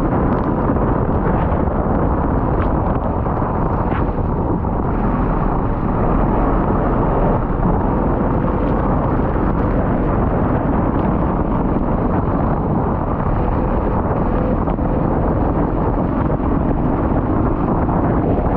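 A 4x4 vehicle running steadily, with a deep rumble and wind buffeting the microphone.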